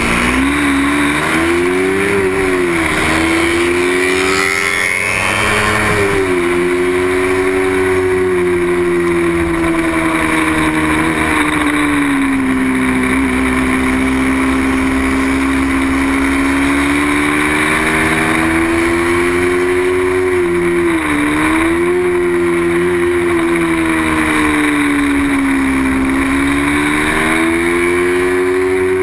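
A small-displacement racing motorcycle engine running hard at high revs, its pitch rising and falling through the laps, with a few sudden drops as the rider shifts or brakes for corners.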